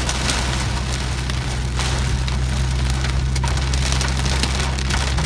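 Heavy rain pelting a car's windshield and roof, a dense patter of drops over the car's steady low hum.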